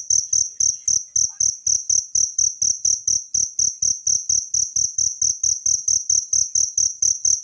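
A cricket chirping steadily in a fast, even rhythm, about four to five short high-pitched chirps a second.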